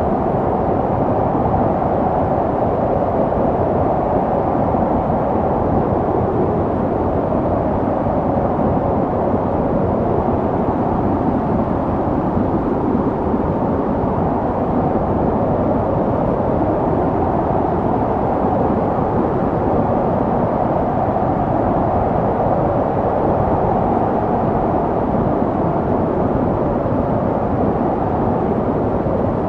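Snowstorm wind blowing steadily, a dense low rushing noise that holds at the same level without gusts or breaks.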